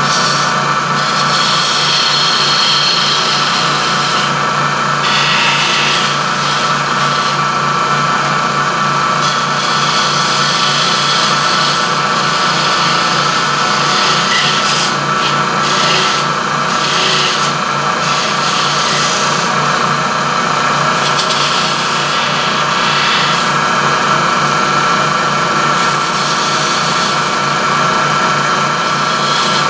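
Wood lathe running with a steady hum while a turning tool cuts coves into a spinning wooden blank. The cutting hiss rises and falls as the tool is worked in and out.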